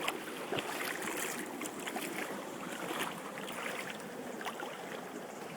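Floodwater sloshing and splashing in a flooded nursery path, with irregular splashes over a steady watery rush.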